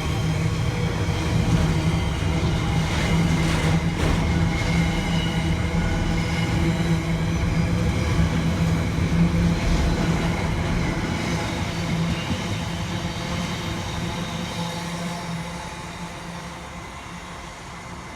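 A train running past with a steady low hum over its running noise, fading away over the last several seconds as it moves off.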